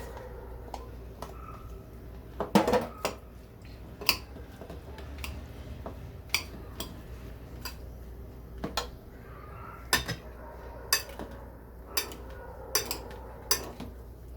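Metal utensils clinking and scraping against a dish while a chopped vegetable salad is mixed, in a string of sharp irregular clinks about one a second, the loudest about two and a half seconds in.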